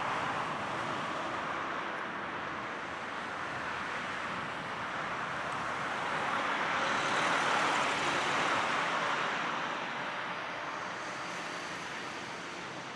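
Distant vehicle noise: a steady rushing hiss that swells about seven seconds in, then eases off.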